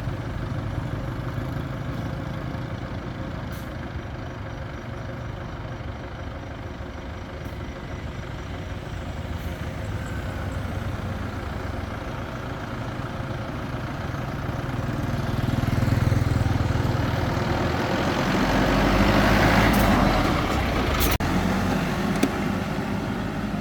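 Crane engine running steadily and revving up twice in the second half, with a brief hiss near the end.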